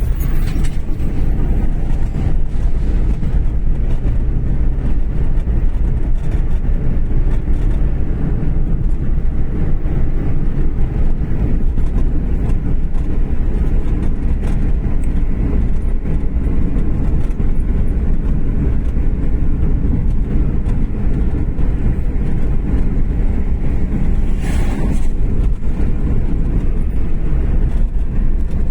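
A car in motion: a steady low rumble of engine and road noise, with a brief louder rush about three-quarters of the way through.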